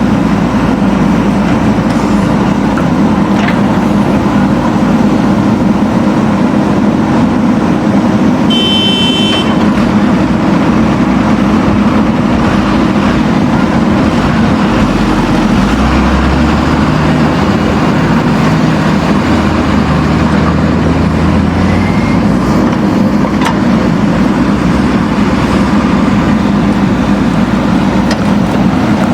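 Backhoe loader's diesel engine running steadily, with a deeper low drone from about halfway that eases off later. A brief high-pitched beep sounds about nine seconds in.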